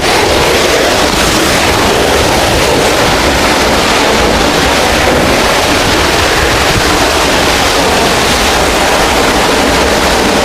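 Steady, loud rushing of the River Ng'onyi waterfall, an even roar of falling water with no breaks.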